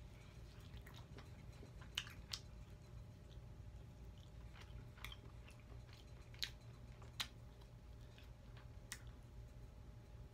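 Faint close-up chewing and biting of fried buffalo chicken wings, with a handful of sharp mouth clicks and small crunches scattered through, over a low steady hum.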